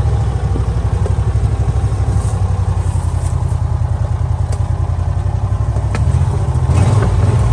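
John Deere Gator utility vehicle's engine running steadily as it drives, with a fast low pulsing and a few light clicks and rattles.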